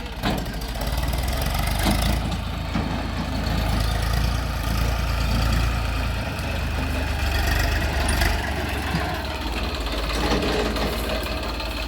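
Heavy diesel engine running steadily, with a few short knocks over it.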